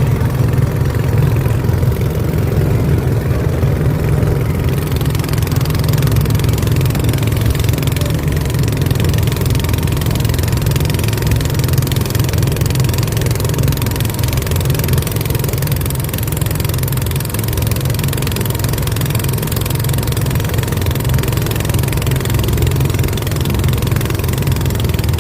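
Boat engine running at a steady speed: a constant low rumble with no change in pitch or level.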